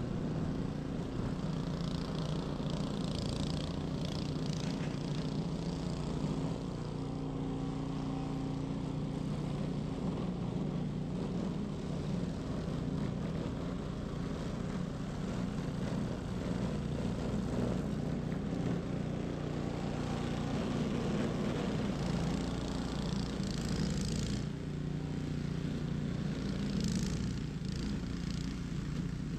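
Ariens 21-inch professional snow blower's engine running steadily under load, with patches of hiss from snow being thrown a few seconds in and again near the end.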